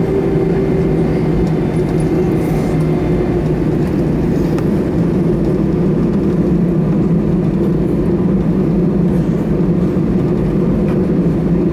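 Steady cabin noise inside an Airbus A319 taxiing after landing: the engines' even low hum over a constant rumble.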